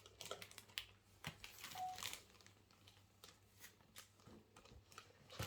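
Near silence with faint scattered clicks and rustling, and a brief faint tone a little under two seconds in.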